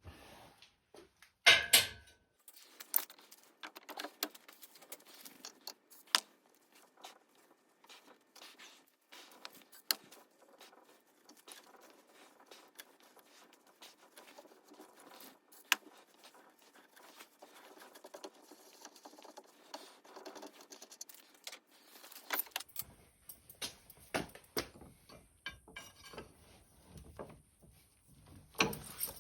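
Irregular small clicks and light knocks of hard objects being handled, with a louder ringing clink about a second and a half in. The knocks grow denser near the end.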